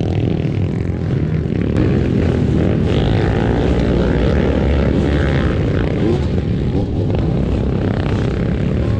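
Enduro motorcycle engine running steadily while being ridden, with a heavy low rumble throughout.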